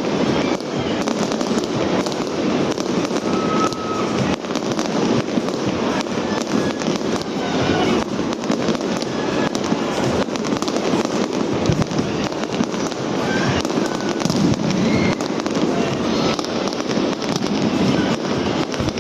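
Aerial fireworks display going off in a rapid, unbroken series of bangs and sharp pops.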